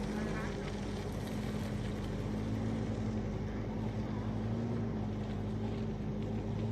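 Isuzu Trooper engine running at a steady, even speed.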